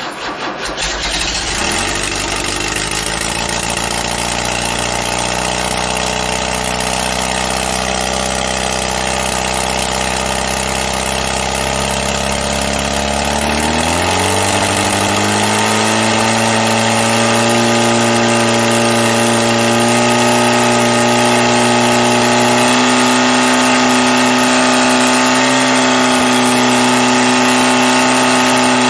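Freshly built 1776cc VW air-cooled flat-four engine on its first cold start: it cranks, catches within the first second and runs steadily. About fourteen seconds in its speed rises and holds at a higher, steady fast idle.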